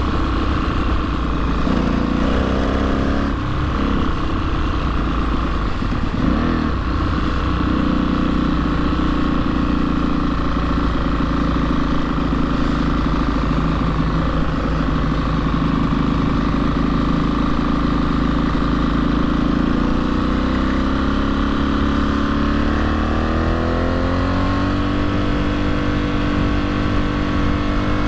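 Aprilia SXV 550 supermoto's V-twin engine running at a steady cruise while riding, its pitch then rising gradually over the last several seconds as it accelerates.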